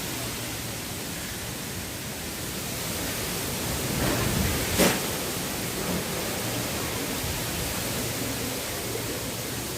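Strong wind blowing steadily, swelling in a gust about four seconds in, with a sharp knock at the peak of the gust just before the middle and a smaller one a second later.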